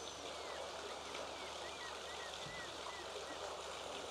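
Steady outdoor rushing background noise, with a small bird chirping a quick series of short, bending notes that stop about three and a half seconds in.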